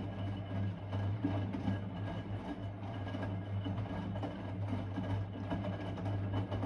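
Blomberg WA391 washing machine running its wash cycle: a steady low motor hum as the drum turns, with faint irregular ticks over it.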